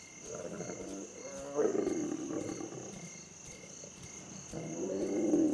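Lion giving two long, low calls, the second starting about four and a half seconds in, over steady chirping crickets.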